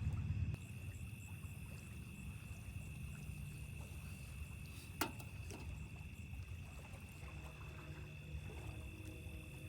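Lakeside outdoor ambience: insects trilling steadily at a high pitch over a low rumble, which drops sharply about half a second in. There is a single sharp click about five seconds in.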